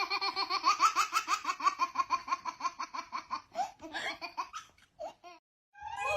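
A person laughing hard in a rapid, high-pitched run of ha-ha pulses, about five a second. It fades after about four seconds, and a couple of short bursts follow near the end.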